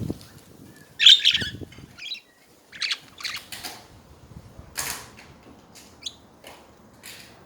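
Pet budgerigars chirping and chattering in short, scratchy bursts, the loudest about a second in.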